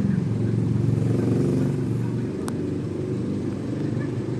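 Domestic cat purring close to the microphone, a low rapid pulsing that shifts in pitch around two seconds in as the cat changes breath. There is a single sharp click about two and a half seconds in.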